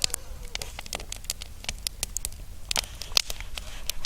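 Wood fire crackling: irregular sharp pops and snaps, a few louder ones about three seconds in.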